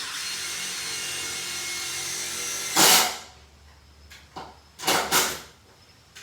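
Dewalt 12V Xtreme cordless impact driver running for about three seconds with a steady motor whine. A loud, short, harsh burst follows at about three seconds, then a few shorter bursts.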